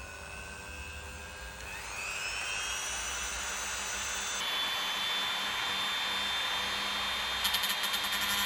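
Dremel rotary tool with a cutting disc running with a high whine that rises in pitch about two seconds in and steps up again midway. Near the end the disc starts grinding against the lens with a rough, rattling scrape.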